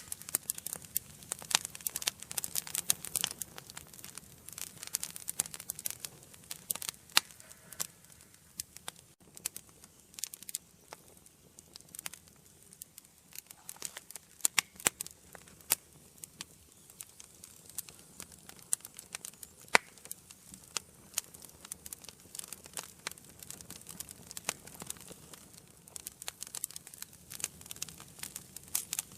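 Wood fire burning in an indoor fireplace: dense, irregular crackling and popping over a soft steady hiss of the flames.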